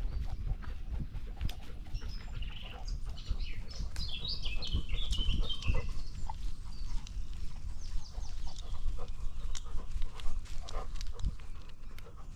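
Dog's footsteps crunching along a woodland trail, heard through a dog-mounted action camera with rubbing and knocking on the mount. A songbird sings a rapid run of high chirping notes about two to six seconds in.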